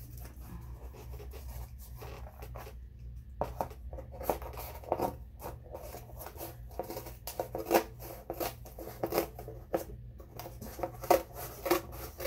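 Scissors cutting through cardboard: a run of short crunching snips at an uneven pace, starting a few seconds in.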